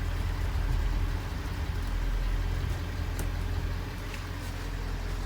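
A bus engine running with a steady low rumble as the bus drives.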